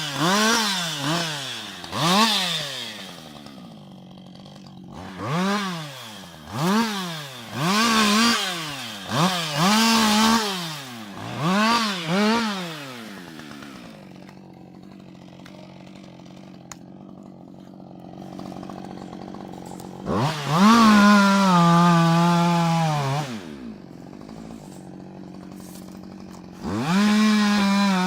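Husqvarna 560 XP two-stroke chainsaw being blipped, revving up and dropping back about once every one to two seconds for the first dozen seconds, then idling. Just past twenty seconds it is held at full throttle for a couple of seconds, its pitch sagging under load as it cuts, and near the end it revs up again.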